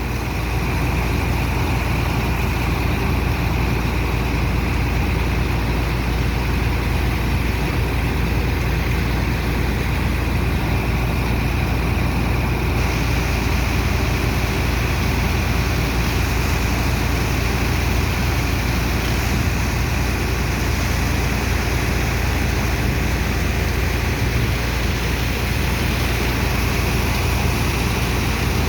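Heavy engine of a sand dredger's pump running steadily, a deep continuous drone with a constant hiss above it.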